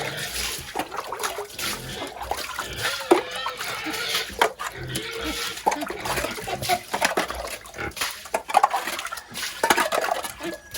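Domestic pigs grunting at irregular intervals, with scattered knocks and clatter from the pen.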